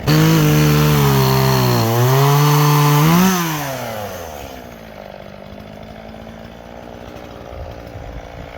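Two-stroke chainsaw throttled up loud and cutting wood, its pitch sagging under load about two seconds in and rising again as the chain clears the cut, then falling back to a steady idle as the throttle is released. The chain is an old one that the owner judges dull, throwing sawdust instead of chips.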